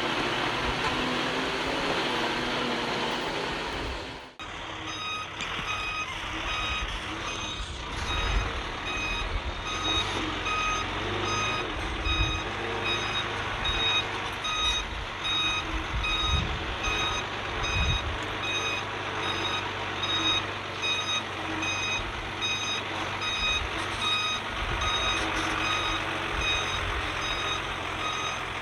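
Heavy construction vehicle's reversing alarm beeping steadily over the rumble of a diesel engine, with occasional low thumps. For the first four seconds there is only a loud rushing noise; it cuts out briefly before the beeping starts.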